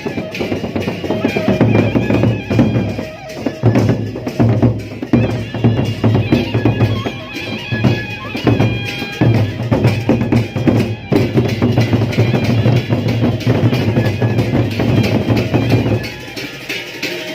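Gendang beleq ensemble playing: large Sasak drums beat a dense, steady rhythm while a suling flute carries a sustained melody over them.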